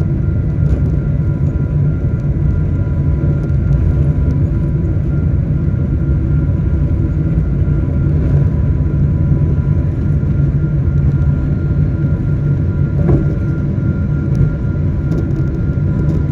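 Steady low rumble of a vehicle in motion, heard from inside, with a few faint steady tones above it.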